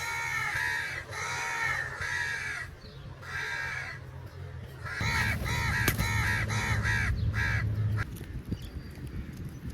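Crows cawing: four harsh caws about a second apart, then a quicker run of shorter caws from about five seconds in that stops near eight seconds.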